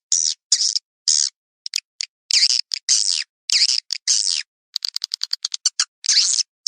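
Recorded edible-nest swiftlet lure calls: short, harsh twittering chirps with quick falling pitch sweeps, alternating with fast trains of dry clicks about a dozen a second, separated by silent gaps.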